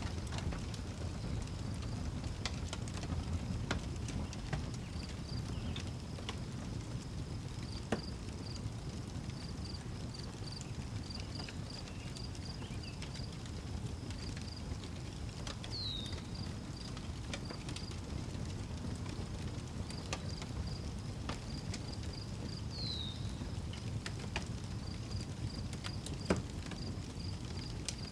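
Outdoor wood fire crackling over a low rumble, with scattered sharp pops, the loudest about a third of the way in and again near the end. Crickets chirp steadily in rhythm behind it, and a short falling call sounds three times.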